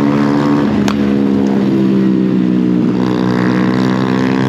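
Honda Grom mini bike's small single-cylinder four-stroke engine running at a steady, held speed while riding, with one sharp click about a second in.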